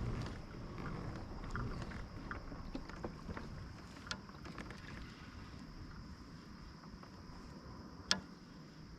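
Water and wind noise around a kayak on a lake, louder over the first few seconds and easing off, with a few sharp knocks of gear against the boat, the loudest about eight seconds in.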